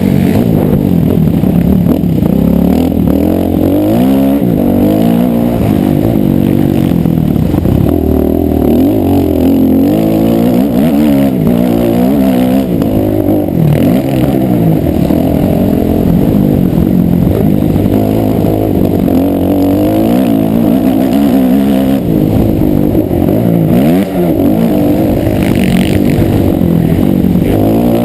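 Motocross motorcycle engine revved up and down over and over, its pitch rising and falling every second or two.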